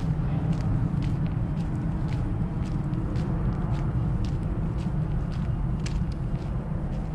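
Footsteps at a walking pace, about two a second, over a steady low rumble.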